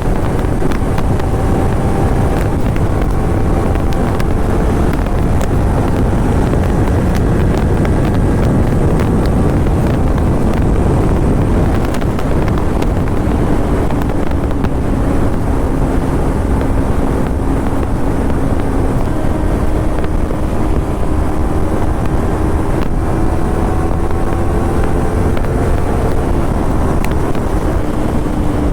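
Kawasaki Ninja 300's parallel-twin engine through a Yoshimura slip-on exhaust, ridden at a steady cruise. The engine note drops slightly about twelve seconds in and slowly climbs again towards the end, under heavy wind rush on the microphone.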